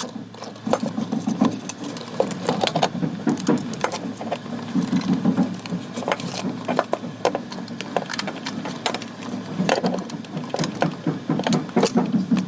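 Small electric motor and plastic gears of a Zurg toy robot whirring in short bursts, with many sharp clicks.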